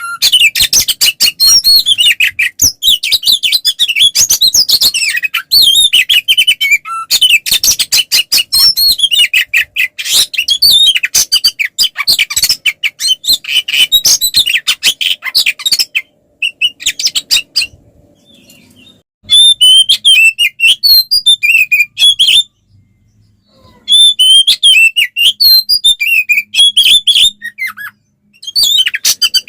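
Oriental magpie-robin (kacer) in full, loud fighting song: a fast, unbroken stream of whistles, chattering and sharp clicky notes, breaking off briefly three times in the second half.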